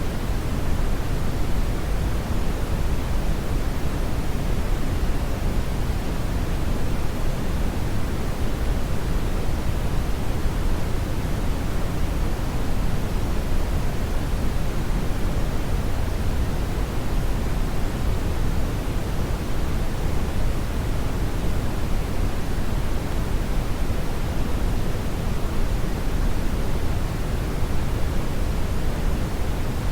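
Steady brown noise: a deep, even rushing hiss, strongest in the bass and thinning toward the treble, with no change or events.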